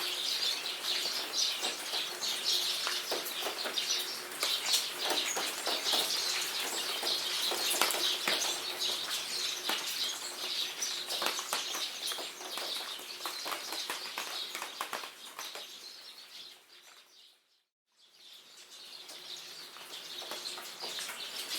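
Jungle rain pattering with birds calling throughout, a dense spatter of drop ticks; the sound fades out to silence about seventeen seconds in and fades back up, a loop or edit point in the recording.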